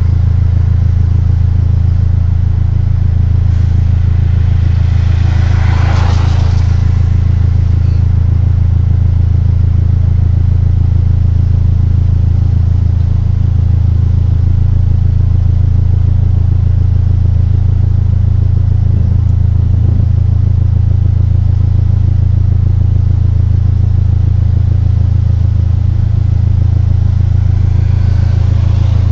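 Car engine running with a loud, steady low drone from the engine bay, an unexplained noise the owner likens to pigeons cooing. A brief brighter swell rises over it about six seconds in and again near the end.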